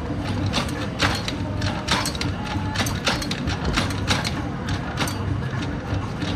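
Dirt bike being started: repeated mechanical clicks and clatter, roughly one or two a second, over a low steady hum.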